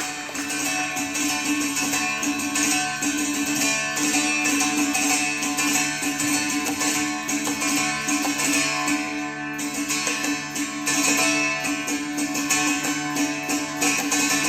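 Carnatic music with a plucked string instrument playing busy, quick notes over a steady low drone held underneath.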